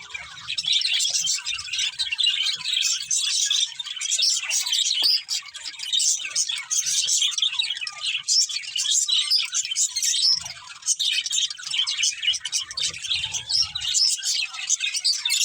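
Several budgerigars chirping and chattering at once: a continuous, dense stream of short, high chirps with no pause.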